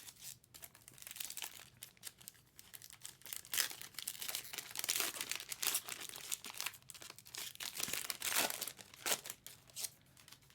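Trading-card pack wrapper crinkling and tearing open, with cards being handled, in a run of irregular crackling rustles that are loudest about five seconds in and again near the end.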